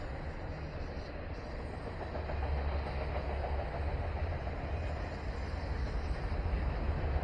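Freight train cars rolling past: a steady low rumble of steel wheels on the rails, growing slightly louder toward the end.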